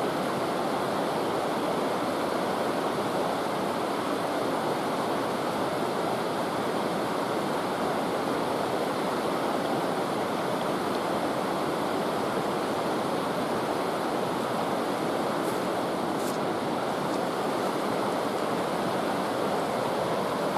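River water rushing steadily, an even noise of flowing water with no breaks.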